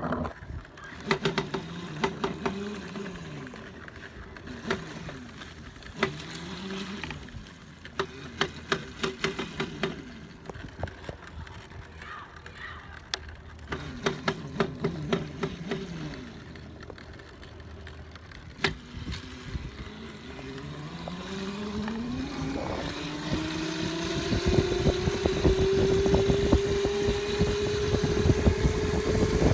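Dirt bike engine idling with short blips of the throttle and scattered sharp clicks and knocks, then winding up steadily about two-thirds of the way in and holding high revs, louder, to the end.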